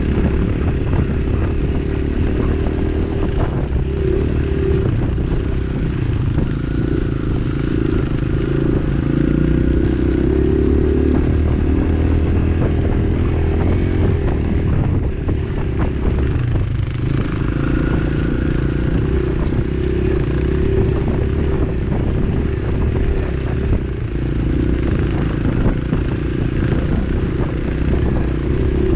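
Dirt bike engine running while being ridden, its pitch rising and falling with the throttle, with frequent clattering knocks over it.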